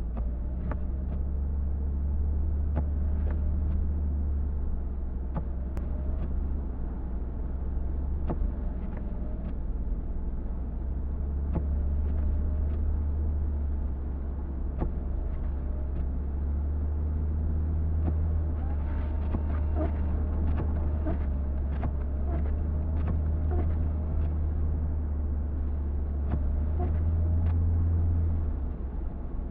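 A car driving on snowy city streets: a steady low rumble of engine and road noise with scattered light clicks and ticks, the rumble easing near the end.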